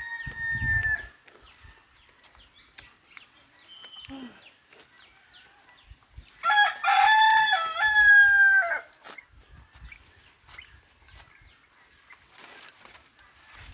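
A rooster crowing: the tail of one crow fades out about a second in, and a full crow of about two seconds comes near the middle. Faint small-bird chirps sound between the two crows.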